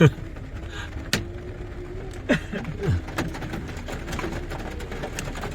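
Hailstones striking, scattered sharp ticks at an irregular pace over a steady low rumble. A few short downward-sliding calls stand out, the loudest at the start and a little past halfway.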